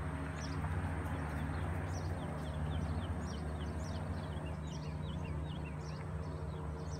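Birds chirping over and over in short, quick falling notes, over a steady low hum.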